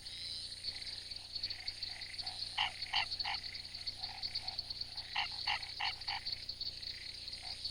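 Frogs croaking in short runs of calls, three about two and a half seconds in and four more between five and six seconds, over a steady high trill of night insects.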